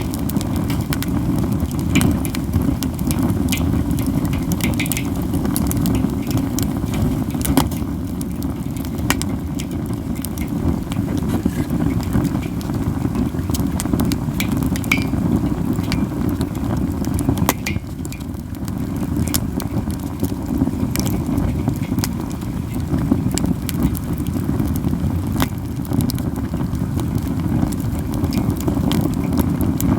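Katsura wood campfire crackling steadily, with frequent sharp pops and snaps from the burning wood over a steady low rumble.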